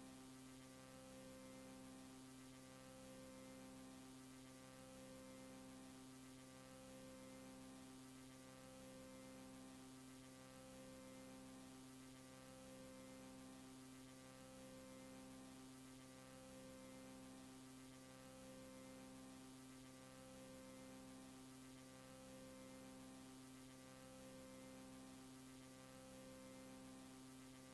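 Faint, steady low electrical hum with a tone that pulses on and off about every two seconds.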